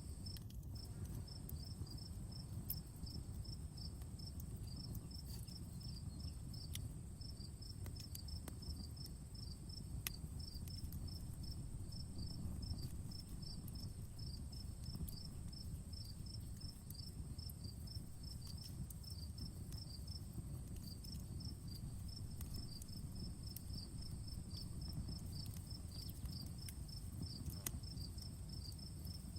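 Outdoor campfire crackling with scattered sharp pops over a steady low rush, while insects chirp in an even high pulse of about four chirps a second.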